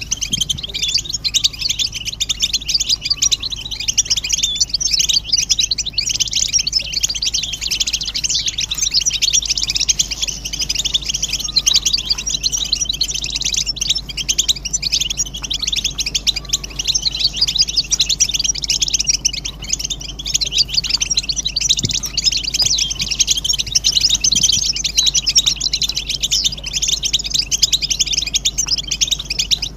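Several European goldfinches twittering and chattering together without a break, the group calls used to prompt a male to sing, over a steady low hum.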